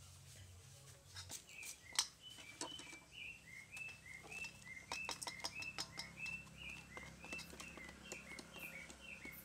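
A bird calling a short chirping note over and over, about three times a second, starting about a second in. Over it come scattered clicks and taps of a spoon against a plastic tray and a steel bowl, the sharpest about two seconds in.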